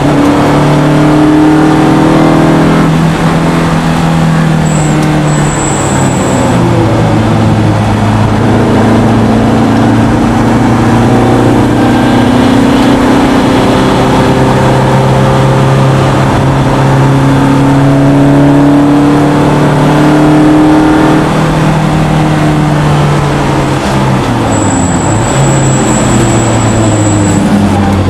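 BMW E30 M3's four-cylinder engine under hard acceleration, heard from inside the cabin: the revs climb and fall with gear changes, hold high for a long stretch, drop sharply about three-quarters of the way through, then climb again near the end.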